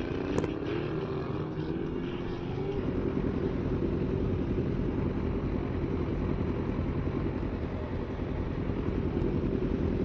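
Yamaha R3 motorcycle engine running at riding speed, its pitch shifting for the first few seconds and then holding steady. A single sharp click sounds about half a second in.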